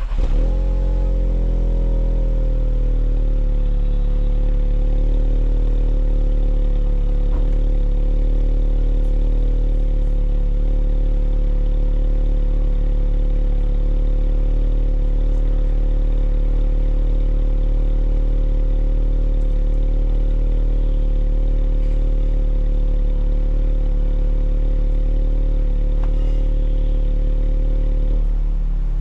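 Volkswagen Polo GTI's 1.8 TSI turbocharged four-cylinder petrol engine on a cold start: it catches with a flare in revs that falls away over the first two to three seconds, then holds a steady fast cold idle. The idle steps down slightly near the end.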